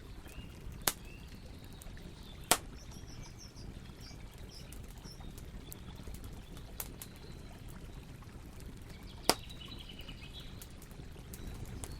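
Campfire crackling: three sharp pops from the burning wood, about one, two and a half and nine seconds in, with a few fainter ticks over a low steady rush. Small birds chirp faintly in the background.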